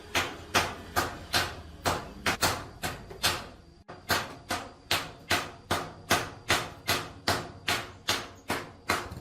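Hammer blows struck in a steady rhythm, about two to three a second, each with a short ringing decay. There is a brief pause near the middle.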